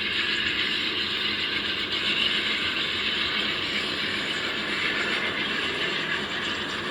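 Amtrak passenger train rolling past, a steady noise of wheels on the rails.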